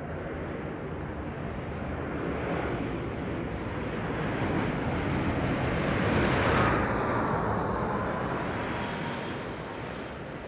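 Jet aircraft flying past in a display pass. The engine noise builds to a peak about six or seven seconds in, then fades, with a whine that drops in pitch as it goes by.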